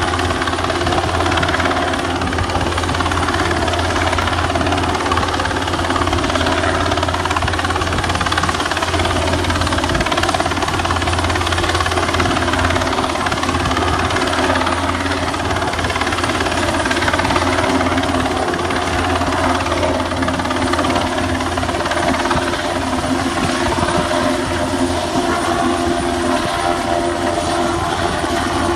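Search and rescue helicopter hovering overhead, its rotors and turbines giving a loud, steady, unbroken drone.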